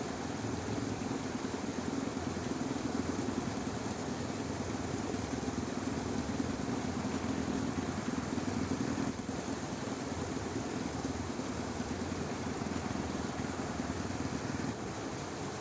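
A low, steady engine hum from a distant motor over a constant outdoor noise background; the hum drops away about a second before the end.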